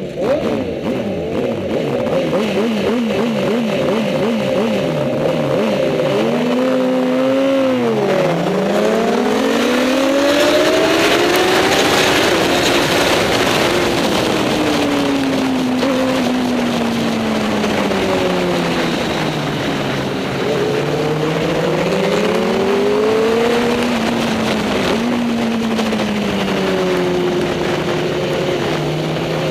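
Superbike racing motorcycle engines. In the first few seconds several engines rev at once. After that the engine note climbs and falls slowly over several seconds at a time as the bikes accelerate and ease off.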